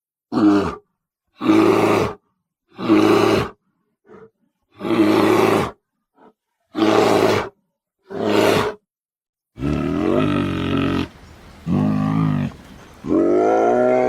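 Sound-effect bear roars made for the extinct giant short-faced bear (Arctodus): six short gruff roars with silent gaps between them, then longer drawn-out roars from about two-thirds of the way in, the last one rising in pitch.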